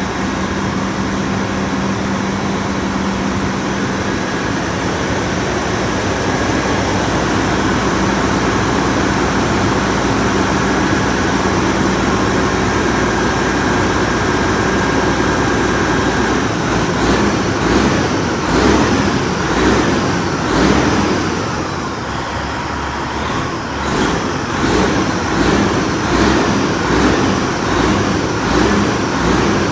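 Freightliner semi truck's diesel engine running, already going rather than starting. About halfway through it turns uneven, swelling and dropping roughly once a second.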